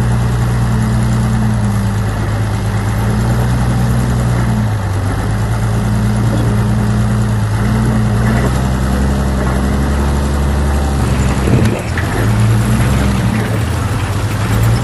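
Heavy diesel engine of earthmoving equipment running, its pitch shifting a few times, with a brief louder moment about three quarters of the way through.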